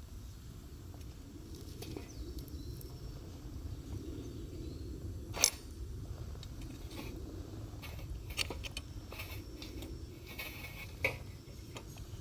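Wood campfire crackling: scattered small pops and ticks over a steady low rumble, with two loud sharp snaps, one about halfway through and one near the end.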